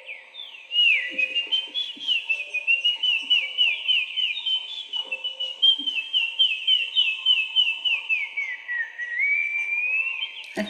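A high, warbling whistle with quick downward slides, several a second, going on almost without a break.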